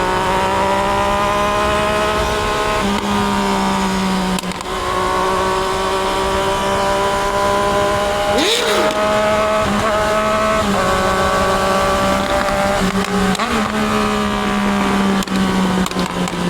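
Triumph Daytona 660's inline three-cylinder engine running at a steady cruise, its pitch holding nearly level and shifting slightly a few times. About halfway through there is a short rising-and-falling sound over the engine.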